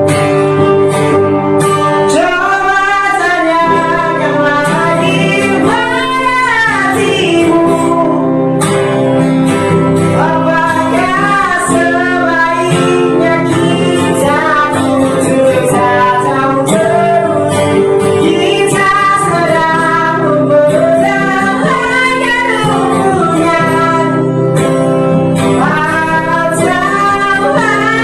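Street buskers' song: a singer's wavering melody over steady instrumental accompaniment with plucked strings.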